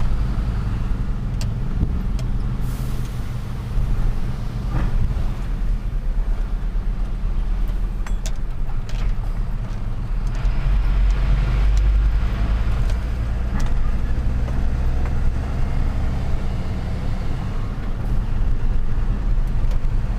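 A truck's engine drones steadily with road noise as it drives through city traffic, with scattered light clicks and knocks and a brief hiss about three seconds in.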